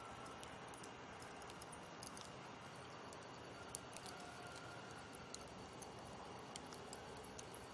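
Campfire burning quietly: a low steady hiss with sparse pops and snaps from the burning wood, the loudest a little under four seconds in.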